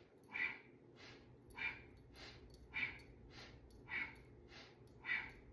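Rhythmic breathing in and out through the nose, about two breaths a second, stronger and weaker breaths alternating as inhale and exhale, keeping time with a quick-paced cat-cow spinal flex.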